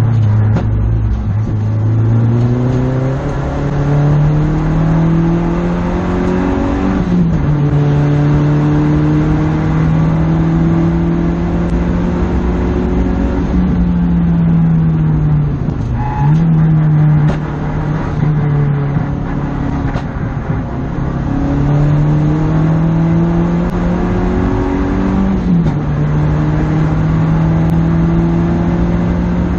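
Mazda 3 MPS-R's turbocharged four-cylinder engine heard from inside the cabin at speed on track. The pitch climbs to an upshift about seven seconds in, then holds steady. It falls away as the car slows around the middle, and climbs again to another upshift near the end.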